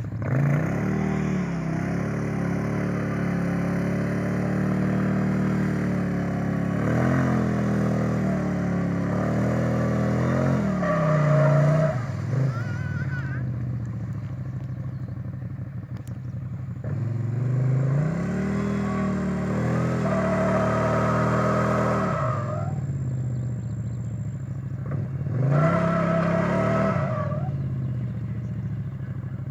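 Off-road vehicle engine running and being revved repeatedly, its pitch climbing and falling back several times.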